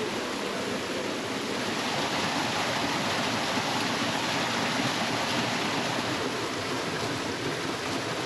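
Steady rush of flowing water, like a small stream or cascade, with no break or change.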